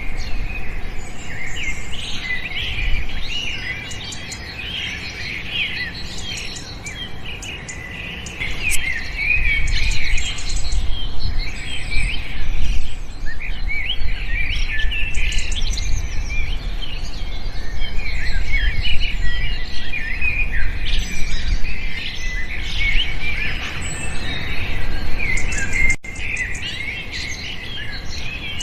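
Many small birds chirping together in a dense chorus of short, high chirps, over a low rumble. The sound drops abruptly near the end.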